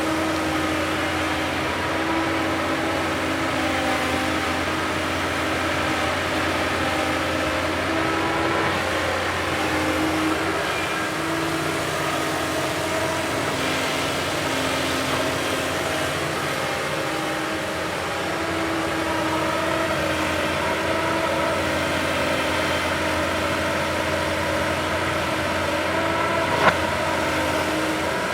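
Backhoe loader's diesel engine running steadily, its pitch shifting a little as the load changes, with one sharp knock near the end.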